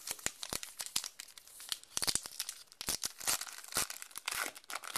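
Trading cards and a foil pack wrapper being handled: quick crinkling rustles and sharp snaps, irregular and close together.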